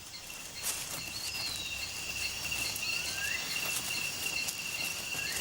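Rainforest ambience: a steady high insect drone with a few short bird whistles, one of them rising about three seconds in.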